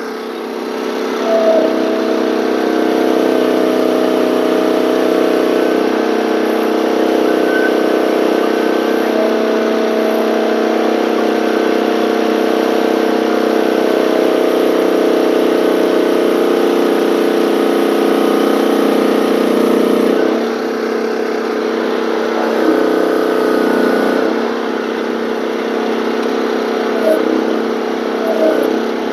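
Gasoline engine of a one-ton mini excavator running steadily under hydraulic load while the machine is worked with a heavy tilt bucket. The engine sound drops briefly about twenty seconds in.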